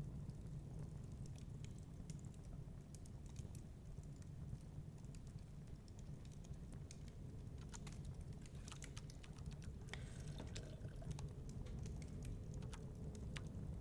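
Wood fire crackling in a fireplace, with scattered sharp pops over a steady low rumble; a small flurry of denser crackles comes about two-thirds of the way through.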